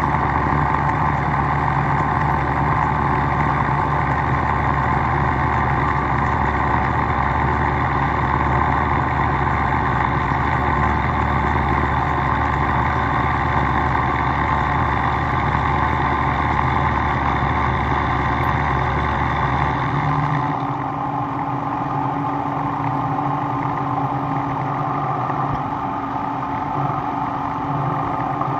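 Steady running noise of a workshop machine. Its low hum drops out suddenly about two-thirds of the way through, leaving a quieter steady noise.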